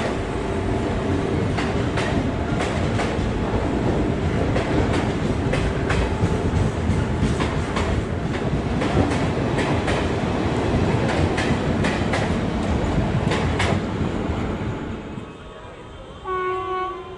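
Passenger express coaches rolling past on departure, a steady rumble with repeated wheel clicks over rail joints. The noise drops away about fifteen seconds in as the train clears. A short horn blast sounds near the end.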